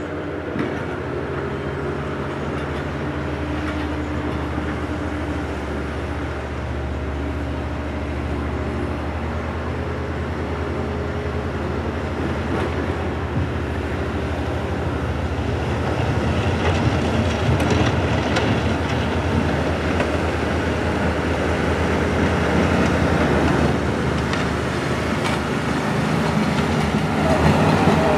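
Railway train with the SM-2 snow-removal set running on the tracks: a steady engine drone with rail noise and some clicking, growing louder through the second half.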